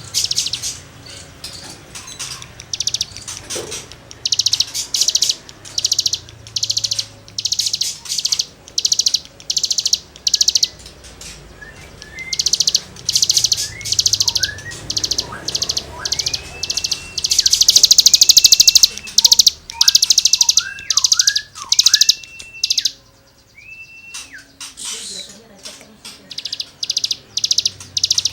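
Cigun (ciblek gunung) songbird singing raspy, scratchy 'gesekan' phrases in fast repeated bursts, about two a second. A run of short clear whistles mixes in during the second half.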